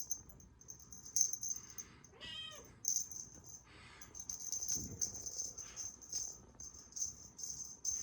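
A cat meows once, a short call that rises and falls about two seconds in, over the repeated high rattling of a shaken cat toy.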